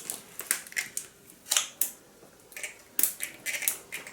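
Candy being handled and eaten close to the microphone: a dozen or so sharp, irregular clicks and crackles.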